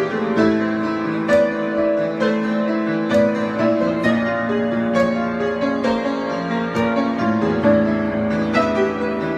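Piano being played in a continuous improvisation, with sustained chords and a line of notes struck every half second or so.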